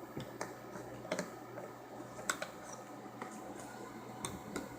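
Faint, scattered light clicks and taps, about eight spread unevenly, of small plastic toy figures being handled.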